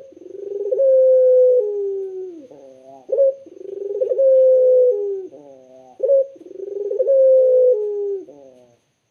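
Puter (Barbary dove) cooing: three calls about three seconds apart, each a short rising note followed by a long held coo that slides gently down in pitch.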